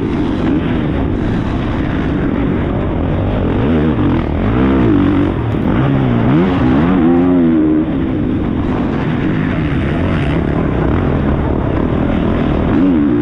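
Onboard sound of a Honda CRF450 motocross bike's single-cylinder four-stroke engine racing on track, its pitch climbing and dropping repeatedly as the throttle is opened and shut through gear changes, with a constant rush of wind noise.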